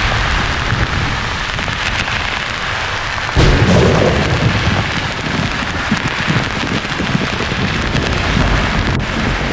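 Steady rain-like hiss of white noise, with a clap of thunder breaking in suddenly about three and a half seconds in and rumbling off over the next few seconds.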